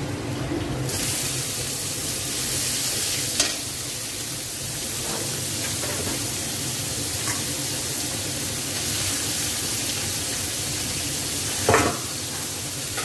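Sliced snake gourd, squeezed of its water, going into hot oil with onions and chillies in a metal kadai: a steady sizzle that jumps up sharply about a second in, with a metal spatula scraping and knocking against the pan as it is stirred, the loudest knock near the end.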